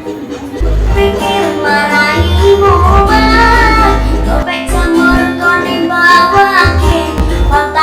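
Loud music over a big sound system: a sung melody over pulsing heavy bass.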